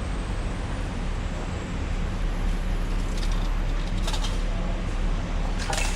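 Steady low engine rumble and general noise of a Star Ferry under way, with a few brief sharper sounds a few seconds in and near the end.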